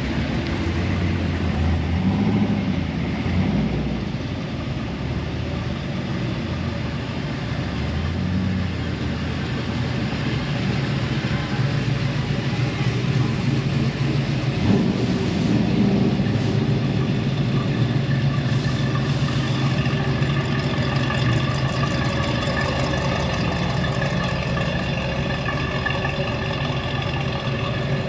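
A vehicle engine running at idle, the low hum uneven at first and settling into a steady drone about ten seconds in.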